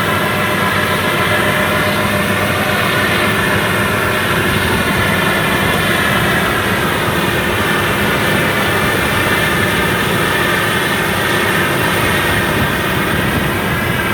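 Rice combine harvester's diesel engine running steadily at working speed, a loud even drone with the machinery of the harvester turning over.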